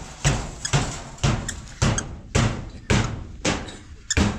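A steady run of heavy thuds, about two a second, each dying away quickly.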